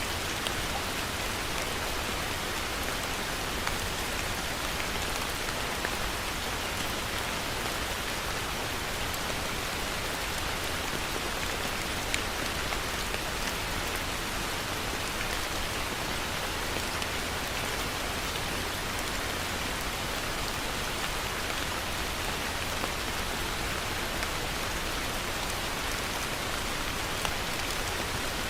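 Heavy rain falling steadily, a dense even hiss with scattered sharper drop impacts on a surface and a constant low rumble underneath.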